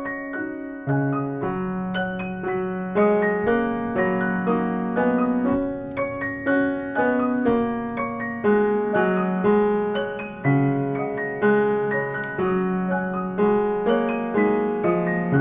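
Piano music: a gentle piece of struck notes that each fade away, with lower bass notes coming in about a second in and a steady flow of notes after that.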